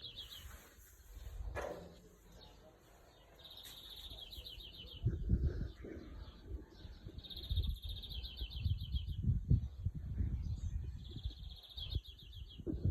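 A songbird's trill, a fast run of high chirps lasting a second or two, repeating about every four seconds. Irregular low bumps and rustling run underneath and are louder from about five seconds in.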